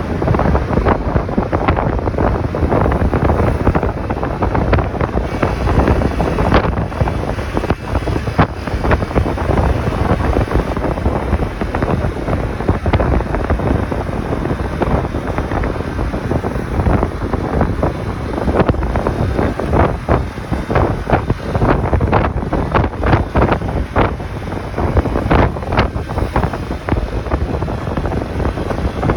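Wind buffeting the microphone on a moving motorcycle, a loud, gusty rush mixed with the motorcycle's engine and road noise.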